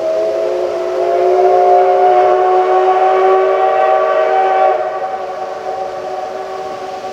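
Steam whistle of the SL Ginga's C58 239 steam locomotive blowing one long blast, a chord of several tones. It swells about a second in, eases off about five seconds in, and keeps sounding more softly near the end.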